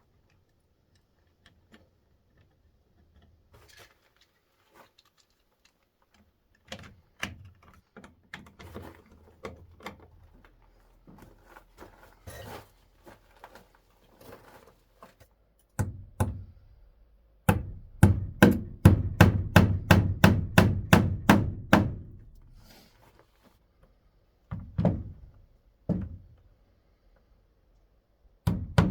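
Scattered knocks on wood, then a quick, even run of about fifteen hammer strikes, roughly three a second, followed by a few single heavy thumps near the end.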